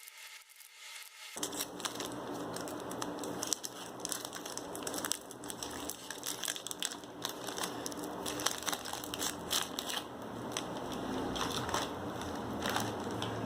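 Plastic snack packaging being handled, crinkling and crackling irregularly with many small sharp crackles, starting abruptly about a second in.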